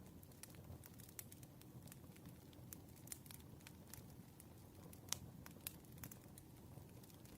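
Campfire crackling: frequent sharp pops and snaps, irregularly spaced, over a soft low rumble of burning wood. The two loudest pops come a little after five seconds and near six seconds in.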